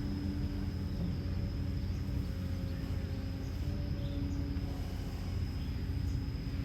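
Kobelco SK210LC excavator's Hino J05E-TG four-cylinder diesel engine running at a steady speed, a low even drone with a thin steady high whine above it.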